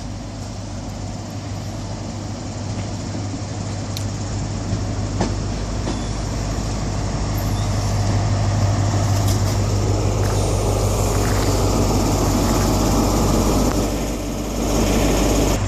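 HST diesel power car running with a steady low hum, growing louder over the first half and staying loud, with a few sharp clicks along the way.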